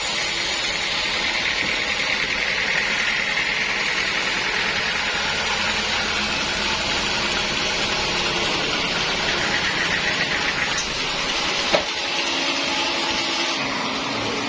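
Sawmill saw running steadily as it cuts through a large log, with one sharp knock about twelve seconds in.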